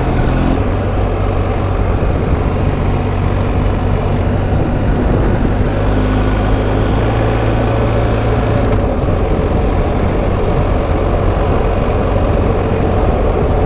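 BMW R1250 GS Adventure's 1254 cc boxer-twin engine running steadily while the motorcycle cruises along a road, under a steady rush of wind and road noise. The engine note shifts slightly about half a second in and again near the middle.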